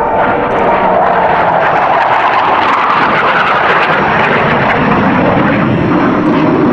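Blue Angels F/A-18 Hornet jets flying past, a loud, steady jet roar whose pitch falls in the second half as they go by.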